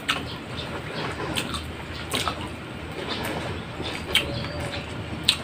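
Close-up eating sounds of people chewing pork ribs and rice eaten by hand: wet chewing with a few short, sharp mouth smacks scattered through.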